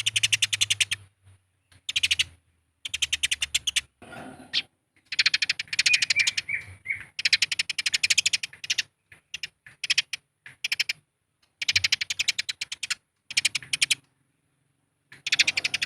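Eurasian tree sparrows chattering in fighting calls: fast trains of sharp chirps, many notes a second, in bursts of one to two seconds broken by short pauses.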